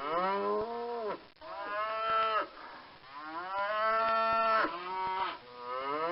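A cow mooing, four long calls in a row, the third held the longest.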